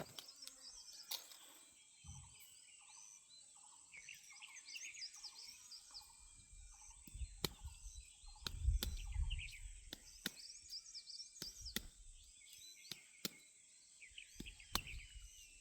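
Outdoor birdsong: many small birds chirping, and one bird repeating a short falling whistled note about twice a second for several seconds. Several sharp knocks come at irregular moments, with a low rumble around the middle.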